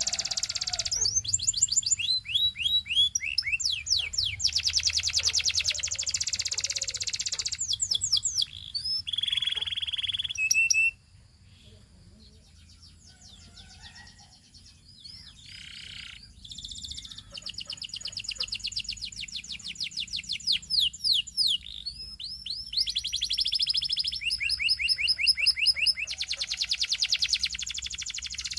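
Canary singing in fast trills of rapidly repeated high notes, breaking off about a third of the way in and resuming after several seconds.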